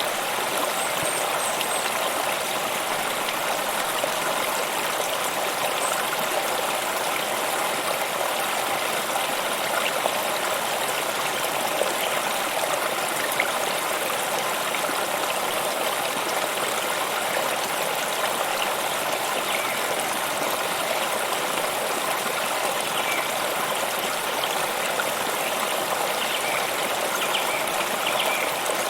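Stream water flowing steadily over stones, an even babbling rush with no pauses.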